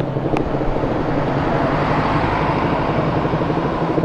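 Motorcycle engine of a 2009 Suzuki Raider R150 (a small single-cylinder two-stroke) running steadily as the bike rides along in traffic, with road noise. There is one brief sharp click about a third of a second in.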